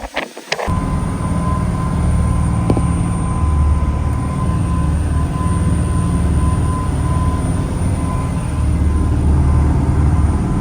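A boat's engine running steadily under way: a loud low rumble with a faint steady whine above it, which comes in suddenly just under a second in.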